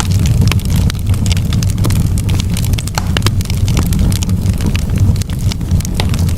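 Campfire burning: wood crackling with frequent sharp, irregular pops over a steady low rumble.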